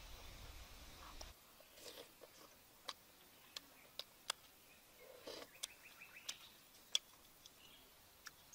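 A person quietly chewing food, with scattered sharp mouth clicks and lip smacks.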